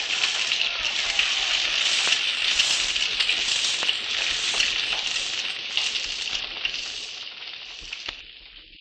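Sound effect of a fire burning, a dense crackling hiss with frequent sharp pops, fading out near the end.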